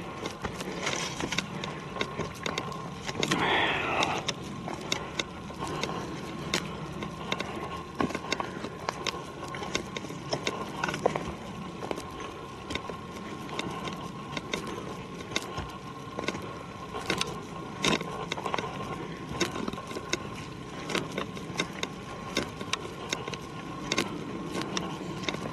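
Footsteps on a forest trail: an irregular run of sharp crunches and clicks underfoot, with no regular machine rhythm.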